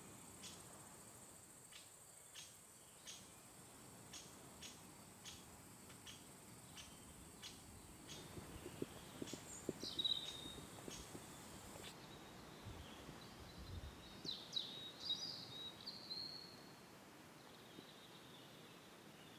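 Faint outdoor ambience with small birds calling: a short high chirp repeated about twice a second, then a few louder gliding chirps in the middle. A few soft low thumps fall in the middle too.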